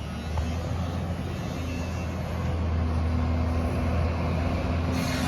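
Recycling garbage truck's diesel engine running with a steady low hum; a hiss starts just before the end.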